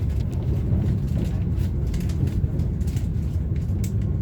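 Passenger train running: a steady low rumble from the carriage, with faint light clicks and rattles over it.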